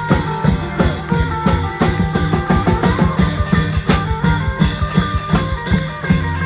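Klong yao long-drum band playing Isan festival music: quick, steady drum beats under a plucked string melody.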